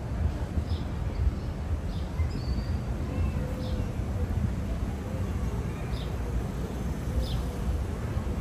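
A small bird chirping, about six short falling chirps spaced a second or two apart, over a steady low rumble of outdoor city noise.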